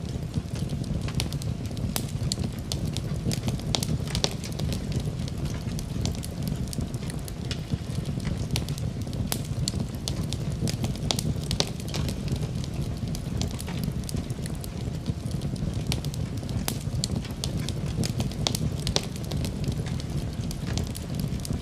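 Wood fire in a fireplace crackling, with many sharp, irregular pops over a steady low rumble.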